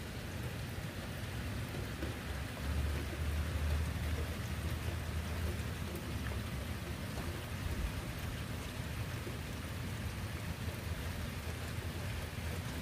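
Steady rain falling on pavement, grass and fallen leaves, an even hiss. A low rumble swells about two and a half seconds in and fades by about five seconds.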